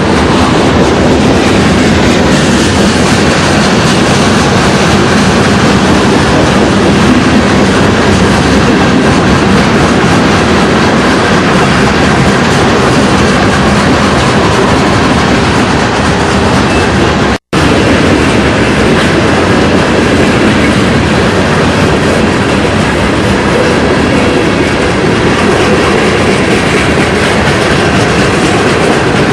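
A train rolling along the rails, its wheels clattering over the track in a loud, steady rumble. The sound cuts out for an instant about two-thirds of the way through, then carries on.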